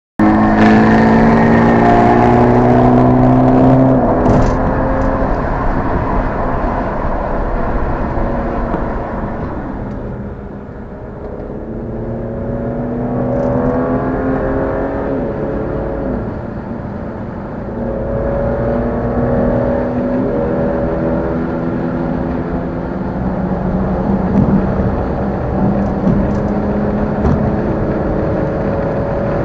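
Car engine and exhaust while driving, pulling hard at first, then easing off and climbing through the revs again several times as the car accelerates and shifts.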